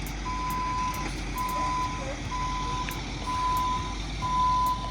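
Tow truck's reversing alarm beeping, a steady single-pitched beep about once a second, over the low rumble of the truck's engine running.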